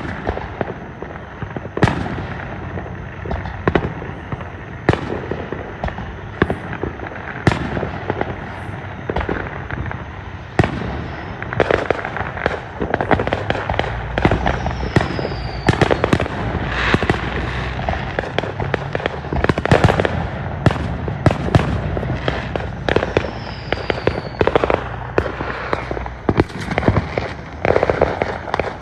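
Fireworks going off in quick succession: many sharp bangs over steady crackling, with two short falling whistles.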